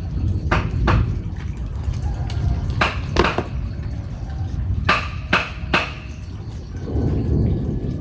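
Sharp knocks, several in quick pairs about half a second apart, over a steady low rumble.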